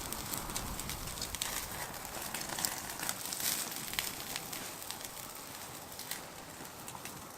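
Meat sizzling and crackling as it grills over the fire in a Snow Peak Takibi-dai S fire grill: a steady hiss with many sharp little pops, growing a little quieter near the end.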